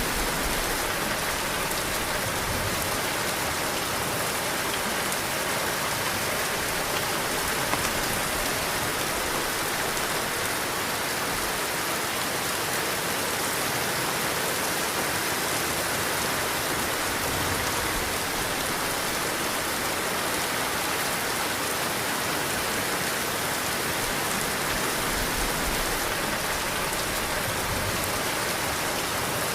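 Heavy rain falling steadily: a dense, even hiss of drops hitting surfaces.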